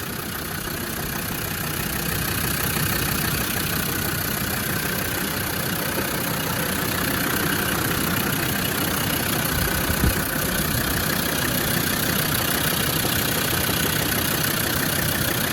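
Land Rover Defender 90 Td5's 2.5-litre five-cylinder turbodiesel idling steadily at working temperature. A brief thump is heard about ten seconds in.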